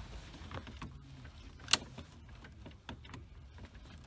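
Small clicks and taps of plastic dash parts, with one sharp snap about a second and a half in, as a flat-blade screwdriver works the hazard switch and its connector loose.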